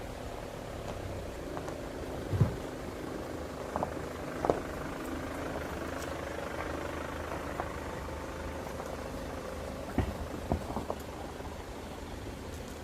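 A steady mechanical hum with a few scattered knocks and clunks.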